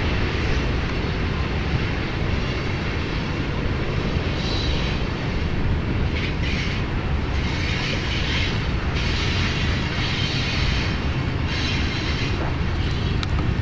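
Freight cars of a Union Pacific mixed freight train rolling past at a distance: a steady, even rumble of wheels on rail, with patches of higher hiss that come and go.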